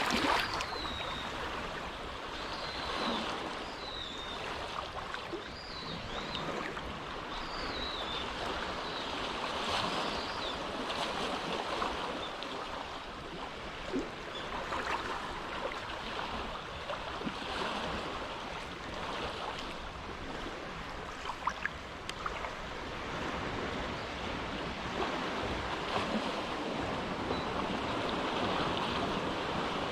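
Small, calm waves washing in and out, a steady soft wash that swells and eases every few seconds. A few short high chirps sound in the first ten seconds.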